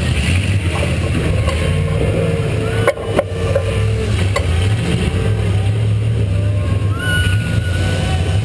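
V8 demolition-derby car engine running steadily, with a sharp bang of an impact about three seconds in.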